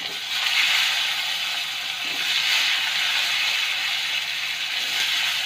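Pieces of eggplant sizzling steadily in hot oil in a steel kadai, freshly dropped into the pan; the sizzle swells about half a second in and then holds even.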